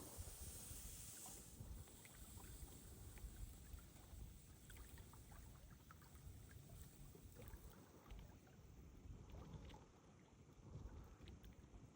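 Wind buffeting the microphone in a low, gusting rumble, with small lake waves lapping and splashing at the shore in light, irregular ticks.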